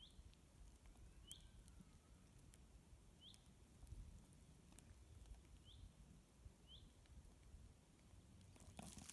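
Faint woodland ambience with a low rumble, and a small bird giving a short, high chirp five or six times, a second or two apart.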